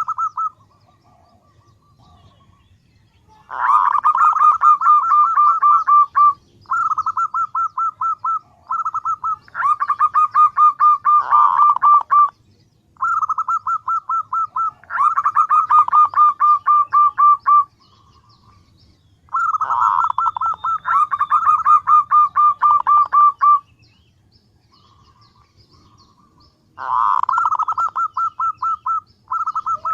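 Female zebra dove (perkutut) calling: rapid trains of short cooing notes, each bout lasting a few seconds with brief pauses between, about six bouts. This is the hen's call that draws males, used as a lure.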